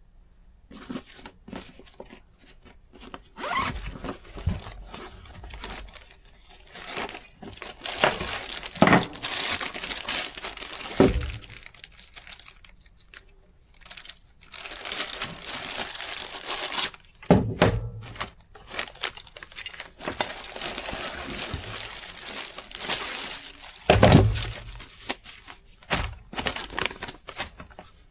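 Packaging being handled and torn open: irregular rustling, crinkling and tearing, with scattered knocks and a few louder thumps.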